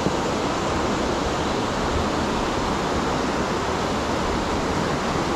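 Waterfall gushing down through a narrow rock gully: a steady, even rush of water.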